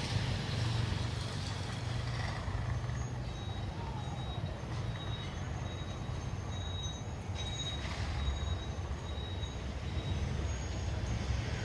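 Street traffic: a steady low rumble of vehicle engines, with a repeating high-pitched beep starting about three seconds in.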